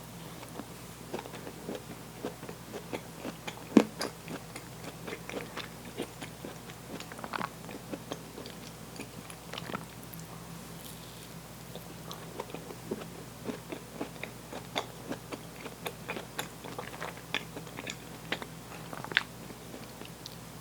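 A person biting and chewing food close to the microphone, with irregular small wet clicks and crunches, and a sharp bite about 4 s in and again near the end.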